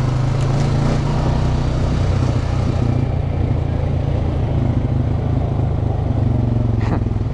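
Off-road vehicle engine running steadily while riding a trail.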